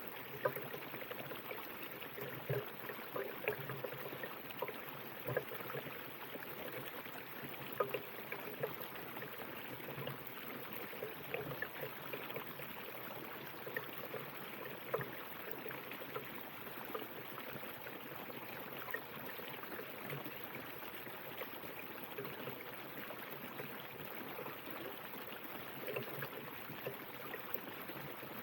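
A river flowing steadily, water running and splashing over stones with a constant rush and frequent small gurgles and splashes.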